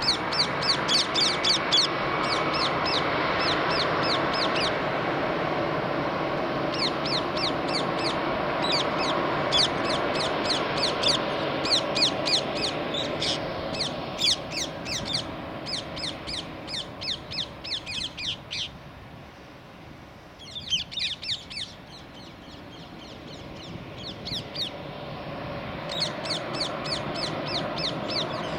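A bird calling in quick runs of high, falling notes, several a second, coming in bursts over the steady rumble of a taxiing Airbus A320-214's CFM56 jet engines. The engine rumble fades for a few seconds past the middle, then builds again near the end.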